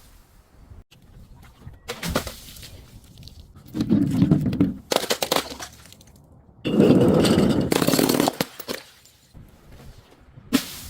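Something being crushed and broken in a series of crunching, cracking bursts. The longest and loudest burst comes about two-thirds of the way through, and a short crack comes near the end.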